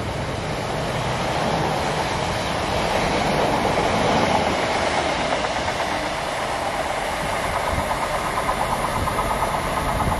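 Train running through the station, a steady rumble of wheels on rails that swells for a few seconds. Near the end, a fast, regular clickety-clack of wheels over rail joints comes in.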